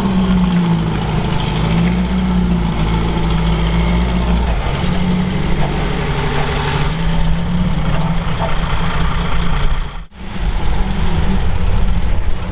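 Vehicle engine running steadily, its pitch wavering a little, with a brief sudden drop-out about ten seconds in.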